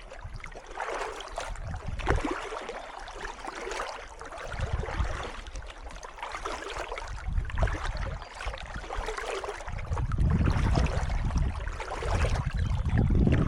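Kayak paddle strokes splashing in calm water, a stroke every second or two. Wind rumbles on the microphone in the second half.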